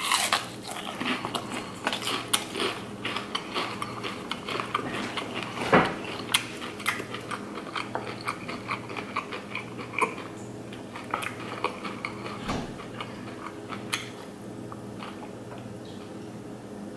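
Close-up chewing of crispy breaded fried shrimp: crunching and wet mouth clicks, thick at first and thinning out as the bite is chewed down.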